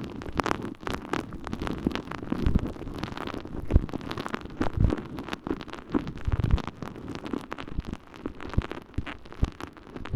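A water-soaked, holey sponge squelching and crackling as it is pressed and rubbed in an ear for ASMR ear cleaning, with dense irregular wet crackles and occasional low thumps.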